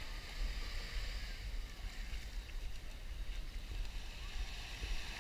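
Wind buffeting the camera's microphone as an uneven low rumble, over a steady hiss of surf washing on the beach.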